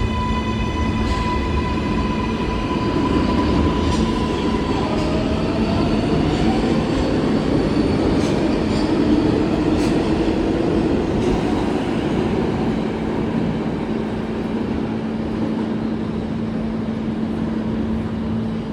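New York City Subway train running, with an electric motor whine that rises in pitch and then holds steady for the first few seconds, over a constant rumble and hum. Several sharp clicks come through the middle stretch.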